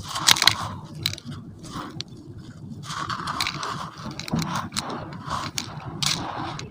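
Lumps of semi-gritty sand cement crumbling in a metal container: irregular gritty crunching and scraping, loudest about half a second in.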